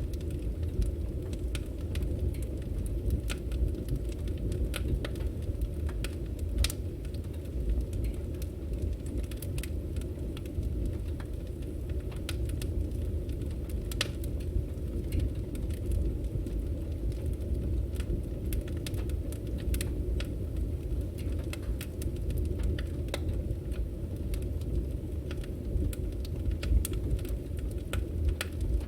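Burning firewood crackling: frequent sharp pops and snaps at irregular intervals over a steady low rumble of the fire.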